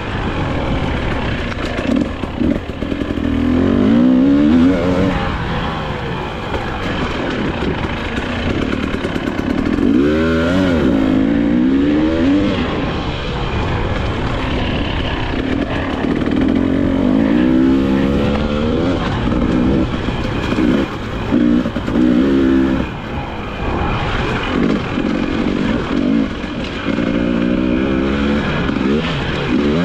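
2022 Husqvarna TE300i two-stroke single-cylinder enduro bike under way. Its engine revs rise and fall again and again as the throttle is opened and shut.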